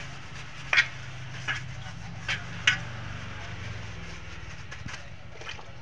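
Stiff brush scrubbing soapy water over drum-brake parts in a few short, sharp scratchy strokes, over a steady low hum.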